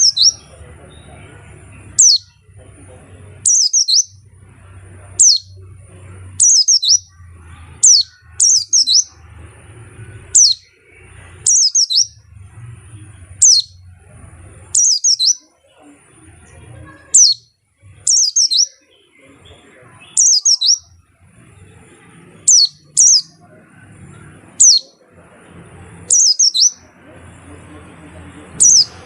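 White-eye (pleci ngalas) calling in short, high chirps that fall sharply in pitch, one or two at a time about every one to two seconds, over a faint steady high thin tone and a low hum.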